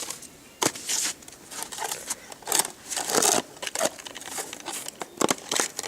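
Irregular crinkling and rustling, several short bursts of varying loudness, the strongest about three seconds in and another near the end.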